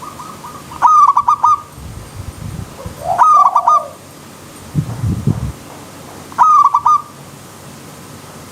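Zebra dove (perkutut) cooing: three phrases about three seconds apart, each a quick stuttering run of coos, over a steady hiss of flowing stream water. Two short low rumbles come between the phrases.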